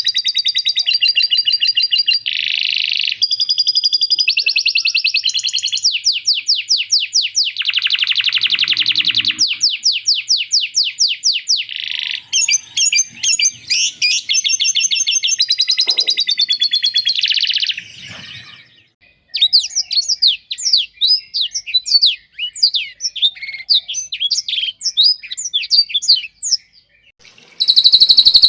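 Songbirds singing the rapid-fire, harsh 'tembak kasar' song style: loud fast trills and machine-gun strings of repeated notes that switch abruptly every second or two as recordings are spliced together. After a short break about two-thirds of the way through comes a looser run of separate sharp chirps and whistles.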